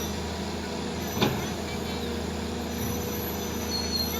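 Heavy diesel engine idling steadily, with a single sharp clack about a second in.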